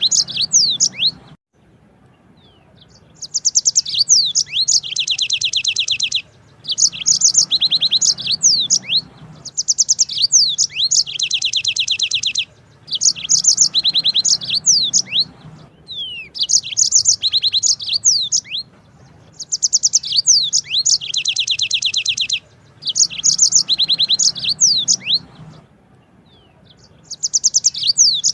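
Yellow-fronted canary (Mozambique singer) singing long high trills mixed with quick whistled slurs. The song comes in repeated phrases of about two to three seconds, with short pauses between them.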